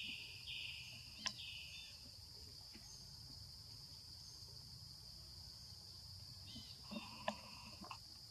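Steady high-pitched drone of insects, with a second, lower buzzing layer in the first two seconds and again near the end. A couple of sharp clicks come about a second in and near the end.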